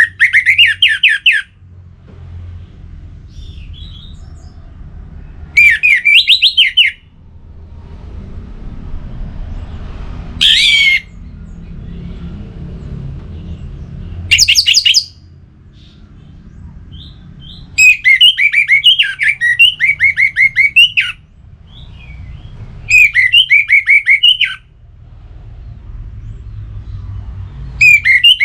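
Orange-headed thrush singing loud phrases of quick, repeated notes, about seven phrases with pauses of a few seconds between them. A low rumble fills the gaps.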